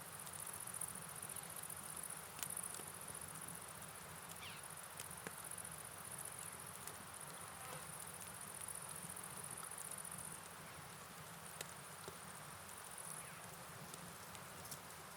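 Night ambience: a continuous high-pitched chorus of crickets over a soft, even hiss of rain and flowing river water, with scattered light ticks.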